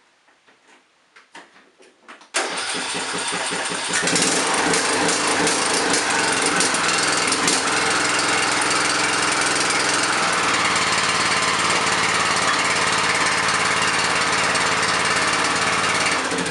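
John Deere LA105 lawn tractor engine started with a newly fitted spark plug: it kicks in about two seconds in, picks up a moment later and then runs steadily.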